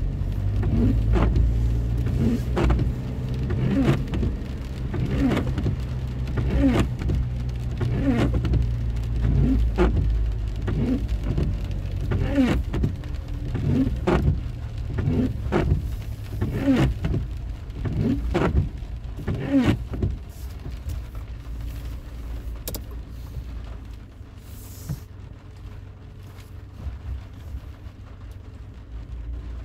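Inside a moving car in the rain: windscreen wipers sweep regularly, about once every second and a half, over a steady engine and road rumble. About twenty seconds in, the wipers stop and the rumble drops to a quieter hum.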